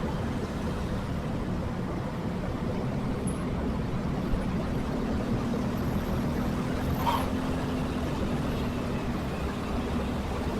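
Steady rumble of a motorcycle riding in city traffic, with a faint steady engine hum from about two to nine seconds and one brief high sound about seven seconds in.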